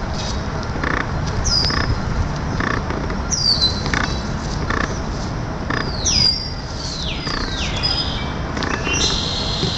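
Birds calling: high whistled notes that slide downward, repeated every second or two, then a few longer falling whistles about six to eight seconds in. Under them runs a low steady background rumble.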